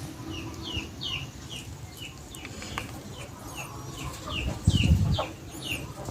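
A chick peeping repeatedly, about two short falling peeps a second. A low thump of handling noise comes near the end.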